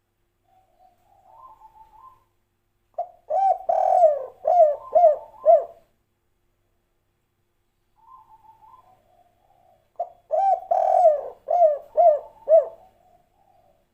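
Spotted dove (tekukur) singing its 'kuk 3' cooing song: twice, a soft rising lead-in followed by a run of loud, falling coos.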